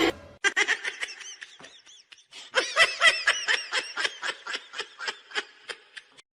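High-pitched laughter in rapid, rhythmic bursts, in two runs with a short break about two seconds in.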